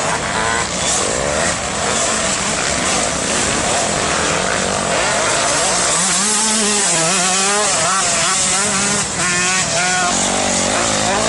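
Motocross bike engines revving, the pitch rising and falling over and over with the throttle, busiest in the second half.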